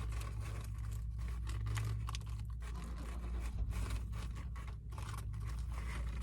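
Sandwich wrapping paper being handled and unfolded, with irregular crinkles, scrapes and small tearing sounds, over a steady low hum.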